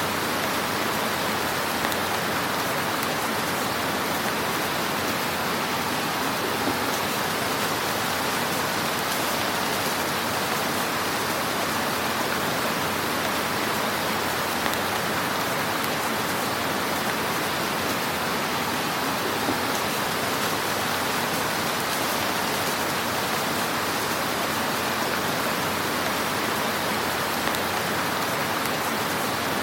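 Wood fire crackling in a fireplace: a steady dense hiss with a few small pops here and there.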